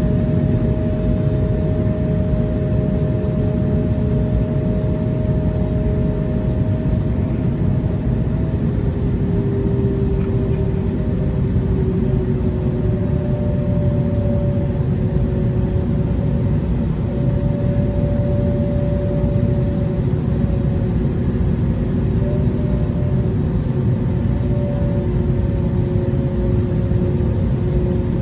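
Airbus A321neo jet engine and airflow noise heard inside the cabin: a steady low roar with two steady droning tones above it that shift slightly in pitch.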